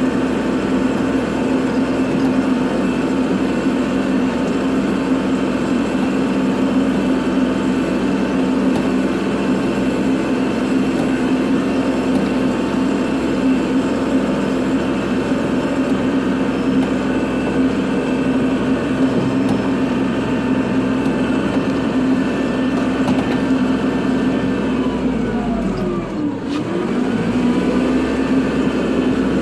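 Kubota tractor's diesel engine running steadily; near the end the revs dip and then climb back up.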